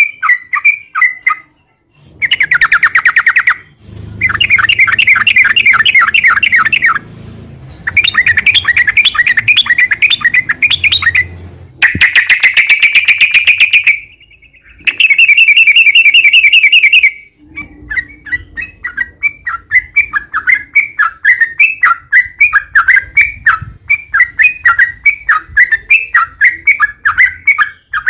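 Yellow-vented bulbul (trucukan) singing loudly, close up: fast rolling trills in bursts of one to three seconds with short breaks, then a long run of quick separate chirps in the second half.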